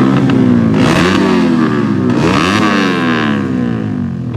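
200cc motocross motorcycle engines running hard. The pitch sweeps up sharply about one second in and again about two and a half seconds in, then slides down after each.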